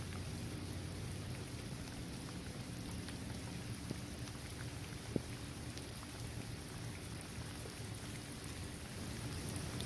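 Steady rain falling on a paved basketball court, trees and grass, with scattered drops ticking. One sharper drop or tap lands about five seconds in.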